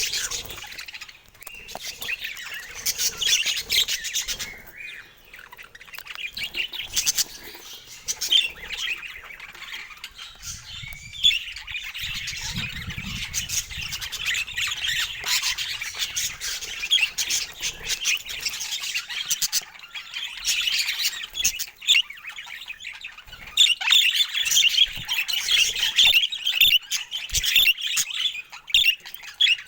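Budgerigars chirping and chattering in a continuous stream of short, rapid calls and squawks, growing louder and busier over the last few seconds.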